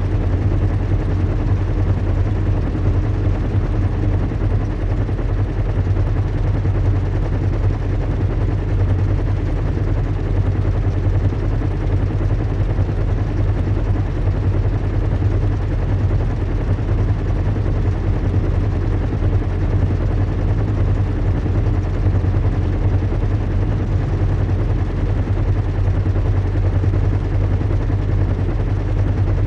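Recreated zeppelin engine drone: a steady, low hum with a faint higher tone above it and a wash of noise, unchanging.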